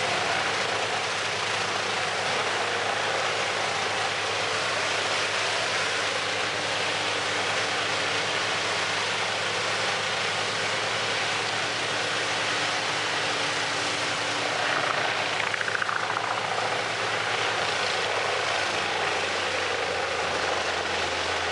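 Large industrial wood chipper's engine running steadily at speed, a dense mechanical noise over a low hum, with a brief falling whine about fifteen seconds in.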